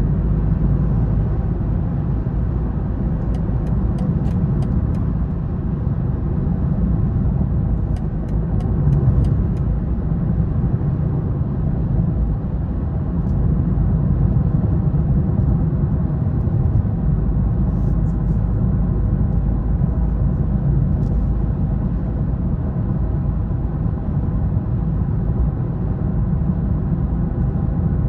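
BMW 330i's engine and tyres running steadily while driving: a continuous low rumble of engine and road noise. Two short runs of faint quick clicks come through, once a few seconds in and once again later.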